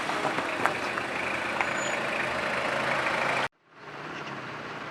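A heavy vehicle's engine running steadily under a broad rushing noise, with a few light clicks. About three and a half seconds in it cuts off abruptly, then a quieter steady noise fades back in.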